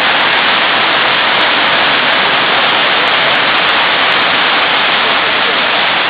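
Torrential rain pouring down, a loud, steady, unbroken hiss.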